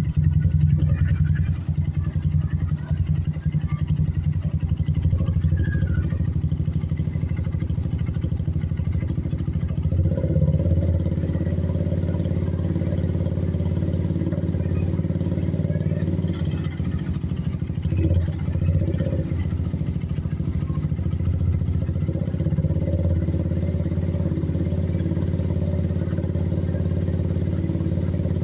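Suzuki Shogun Axelo R125's single-cylinder four-stroke engine running steadily through a Yoshimura aftermarket exhaust, with a brief rise in engine sound about ten seconds in and another around eighteen seconds.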